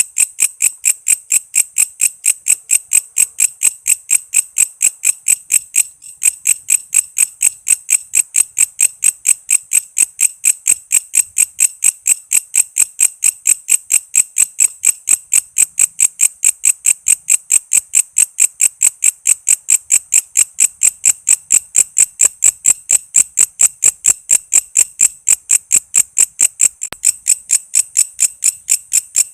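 Walang kece, a katydid (bush cricket), calling in a steady train of short, high-pitched chirps, about three to four a second, with a brief pause about six seconds in.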